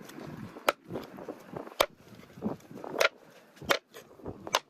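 Knife chopping on a cutting board: five sharp knocks about a second apart, unevenly spaced.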